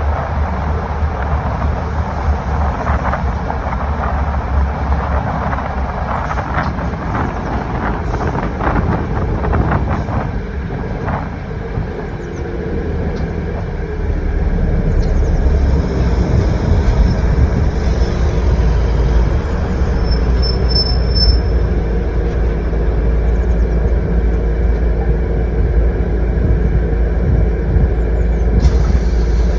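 Steady, loud low rumble like a heavy vehicle running, with scattered clicks and knocks over the first ten seconds and a brief high tone about twenty seconds in.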